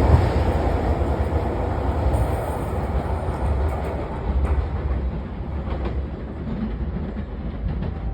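JR Shikoku 8000 series electric express train running on the track: a steady low rumble that slowly fades, with a few wheel clicks about four to six seconds in.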